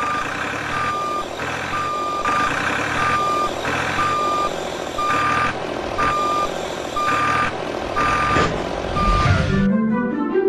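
Vehicle reversing alarm beeping about once a second, a single steady tone over the running motor, stopping shortly before the end.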